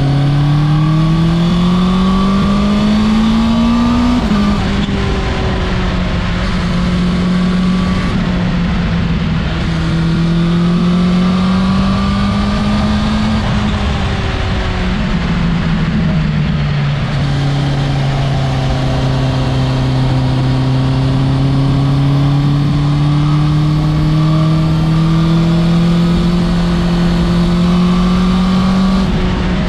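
Honda CB650R's four-cylinder engine and exhaust running under load. The pitch climbs, drops sharply about four seconds in and again near the middle, then holds low and rises slowly to the end.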